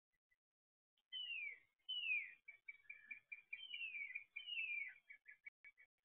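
A songbird singing from about a second in: four clear whistles sliding down in pitch, mixed with quick runs of short repeated notes.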